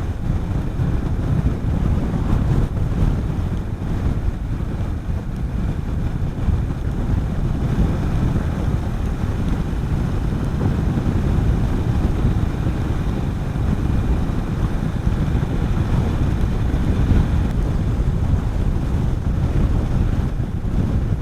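Wind rushing over the helmet microphone on a moving motorcycle, with the low rumble of the Honda CB400SS's single-cylinder engine running steadily underneath.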